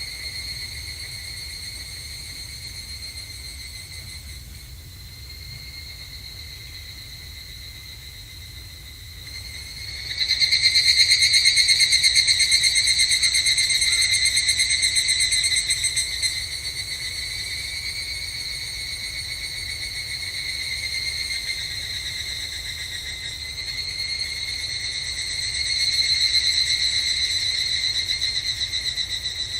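Evening cicadas (higurashi) singing, a high, ringing insect song that carries on without a break. It grows markedly louder about ten seconds in, eases after about six seconds, then swells again near the end.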